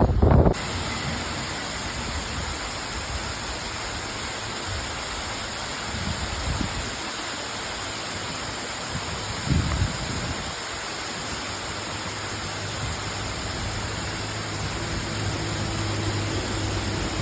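Steady rush of falling water from a monsoon waterfall, with two brief low thumps in the middle and a low hum coming in near the end.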